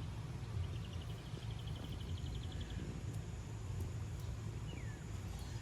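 Outdoor background with a steady low rumble. Over it a small bird gives a rapid high trill lasting about two seconds, and later a single short note that falls in pitch.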